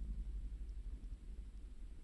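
Swedish torch wood fire burning, with a few faint crackles over a steady low rumble.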